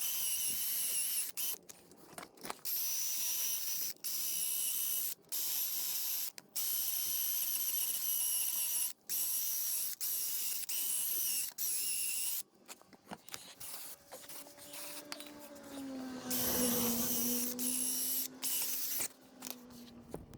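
Compressed-air tool run in repeated bursts of one to three seconds, a high hissing whine that starts and stops sharply. Near the end a quieter, lower hum that dips slightly in pitch.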